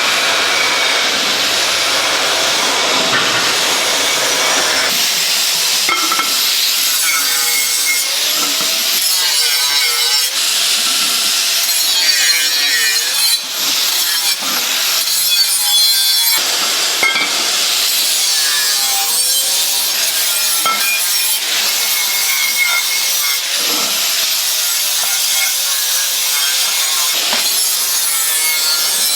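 A power tool cutting or grinding: a continuous harsh rasping noise with a wavering whine that shifts in pitch as the load changes, broken by a few short pauses.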